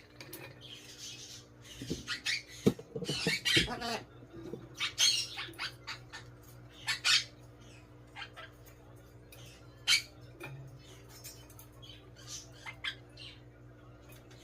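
Amazon parrot squawking and making short clicks and chirps in scattered bursts, busiest about two to four seconds in, with a few single calls later.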